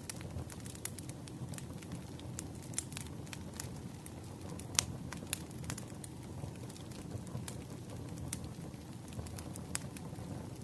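Wood campfire crackling: frequent irregular pops and snaps over a low steady rumble of the flames, with one louder pop about five seconds in.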